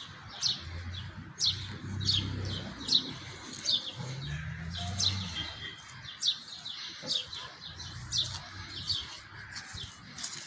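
Small birds chirping, a steady run of short high notes that sweep downward, about two a second.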